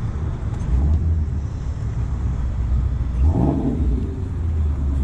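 Car engine rumbling low and steady, with a brief louder burst about three seconds in.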